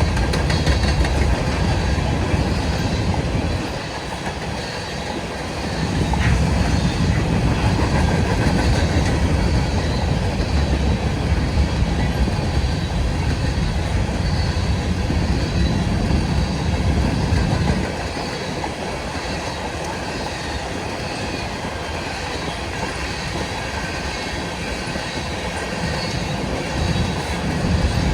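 Empty freight cars of a grain train rolling past, wheels rumbling and clacking over the rail joints. The rumble eases for a couple of seconds about four seconds in, and again through most of the second half.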